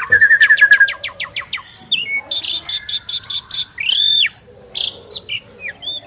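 Two pied starlings (jalak suren) singing together. A rapid run of sharp chips in the first second gives way to a varied string of chattering notes and whistles, with a long arched whistle about four seconds in.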